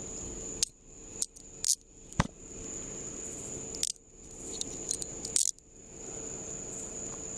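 Metal handcuffs being put on a person's wrists: a scattered series of sharp metallic clicks and jingles over about five seconds.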